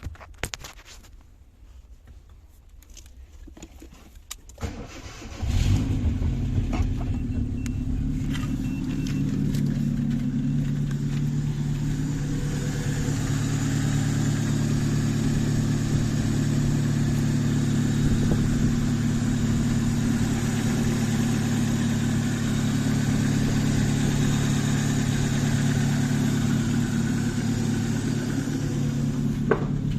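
Hyundai Accent engine cranked and caught about five seconds in after a few clicks, then idling steadily. The seller describes the engine as running well.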